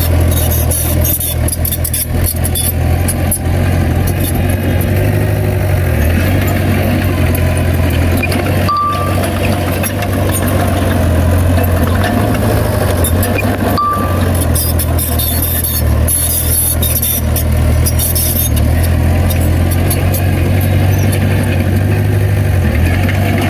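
A Komatsu bulldozer's diesel engine running with a steady low drone, the pitch shifting a little as it works. Two short high beeps sound about five seconds apart.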